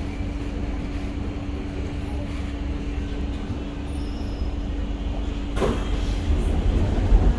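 C151A MRT train with a steady electrical hum over a low rumble. A short burst of hissing noise comes about five and a half seconds in, and the hum fades soon after.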